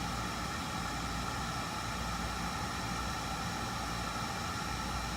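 Air-conditioning equipment running with a steady hum and a whine of several fixed tones.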